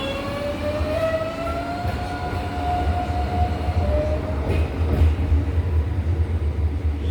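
Tren de la Costa electric train running past, a steady low rumble with a whine that rises in pitch over the first few seconds and then fades.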